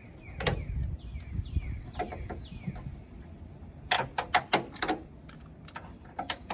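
A bird chirps repeatedly with short falling notes through the first half. About four seconds in comes a quick cluster of sharp clicks and clatters from old plastic trim clips being pulled out and handled.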